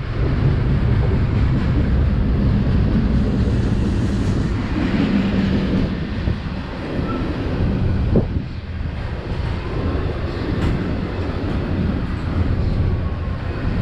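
Freight train rolling past close by, a steady heavy rumble of wheels on the rails, with one sharp clack about eight seconds in.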